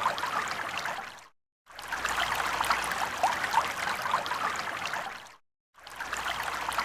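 Running water in rainforest ambience, a steady rushing hiss with a few short chirps over it. It cuts out completely twice for a fraction of a second.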